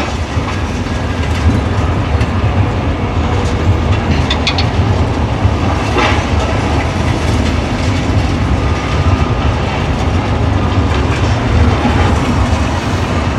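Demolition excavator running steadily with a heavy low rumble, with occasional clanks and scrapes as it crunches through concrete, a couple of them about four and six seconds in.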